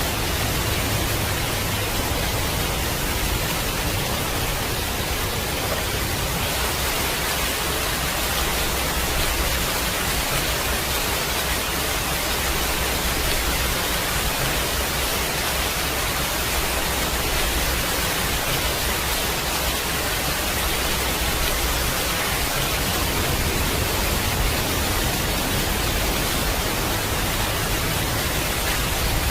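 Steady heavy rain: a dense, even hiss with a low rumble underneath that swells and fades slowly.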